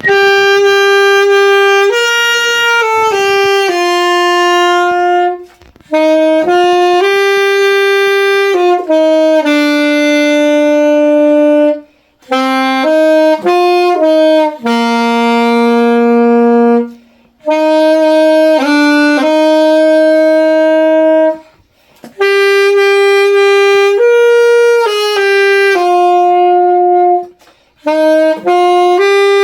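Solo saxophone playing a slow melody of held notes, one line with no accompaniment, in phrases broken by short breath pauses.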